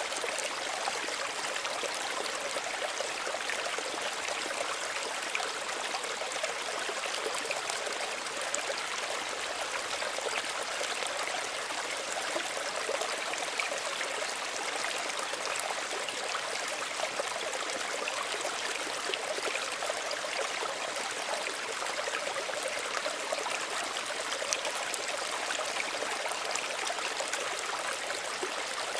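Small stream running and trickling steadily, with fine splashing and babbling over a constant rush.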